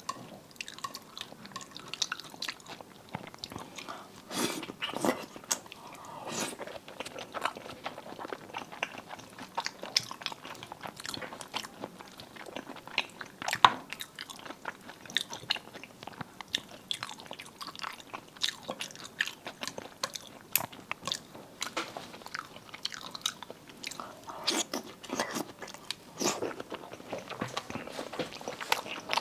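A person eating marinated seafood close to the microphone: irregular bites and chewing, with wet clicks and short crunches. The sharpest click comes about halfway through.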